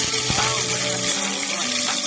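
Battered broccoli deep-frying in hot cooking oil: a steady, loud sizzle, over background music.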